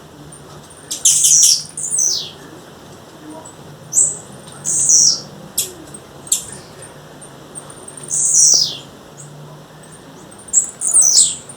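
Female blue-black grassquit calling: short, high-pitched notes that sweep down in pitch, repeated at uneven intervals about every one to two seconds, with a longer falling call about eight seconds in.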